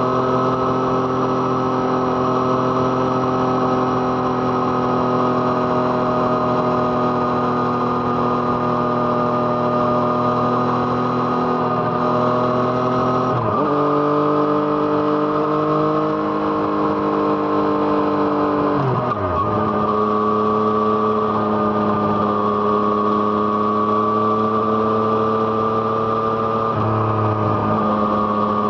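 Yamaha MT-09's three-cylinder engine through an Arrow Thunder exhaust, running steadily under way with slowly drifting revs. Its pitch dips and shifts briefly about halfway through and again a few seconds later, as with gear changes.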